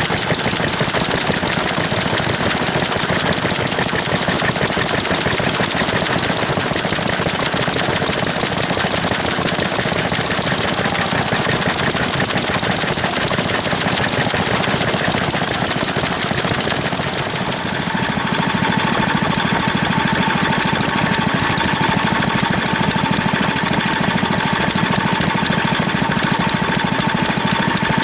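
Vintage stationary engines running with a fast, steady knocking beat. About two-thirds of the way through, the sound shifts to a different engine with a steadier tone.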